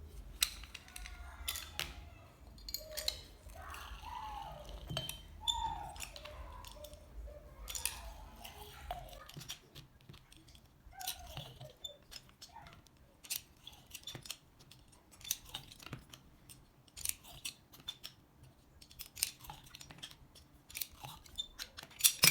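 Lemons being squeezed for juice: a run of short clicks, knocks and squelches from the juicing, repeated through the whole stretch as four lemons are pressed.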